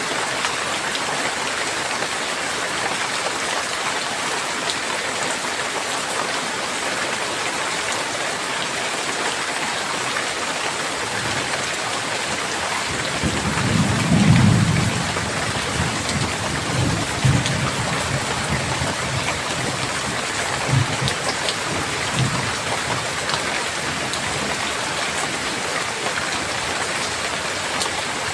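Steady rain with a roll of thunder about halfway through: a low rumble swells in, peaks, then rumbles on in a few weaker peals for several seconds.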